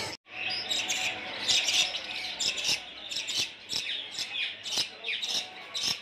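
Many caged birds chirping and squawking at once: a dense run of short, high calls, many of them sliding downward.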